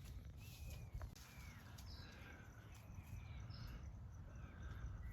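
Birds chirping: a string of short, descending chirps repeating every half second or so, over a steady low rumble.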